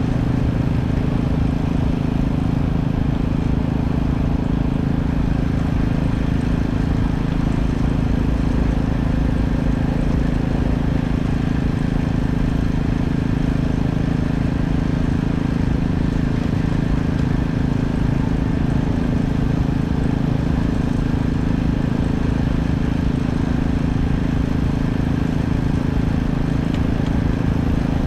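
An engine running steadily with a constant low hum, unchanging throughout.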